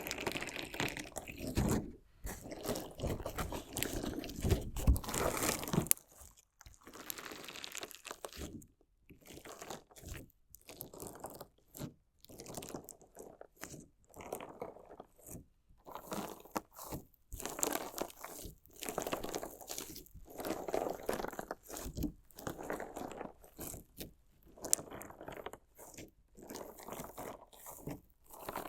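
Crunchy slime mixed with small decorative stones, crunching as it is cut and pressed. The crunching is dense for about the first six seconds, then comes in separate bursts every second or two.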